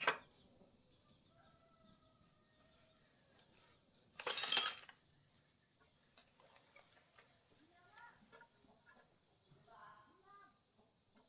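Metal tools or engine parts being handled on a workbench: a sharp click at the start and one brief, louder metallic clatter about four seconds in, otherwise quiet.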